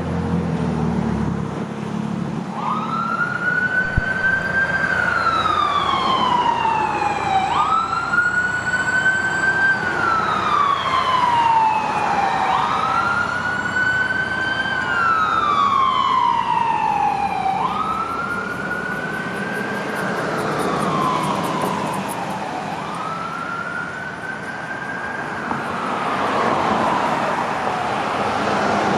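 Emergency vehicle siren on a wail, each cycle a quick rise followed by a long slow fall, repeating about every five seconds over traffic noise. A low vehicle rumble fades in the first couple of seconds, before the siren starts.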